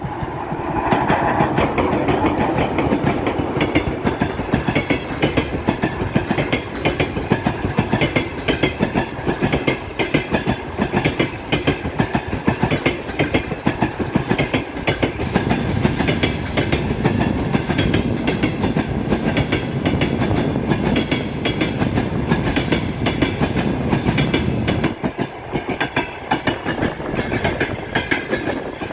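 Long passenger train behind a ChS8 electric locomotive passing at speed, its wheels clattering steadily over the rail joints. The passing goes on for nearly half a minute, with a short lull about three-quarters of the way through.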